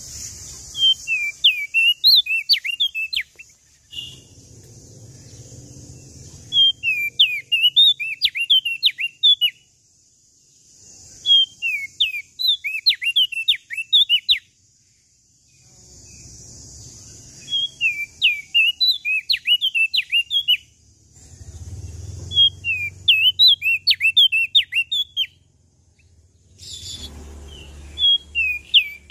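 Prenjak daun Lombok songbird singing in about six bursts of rapid, sweeping chirps, each about two seconds long, with short pauses between. A steady hiss and a low rumble fill the gaps.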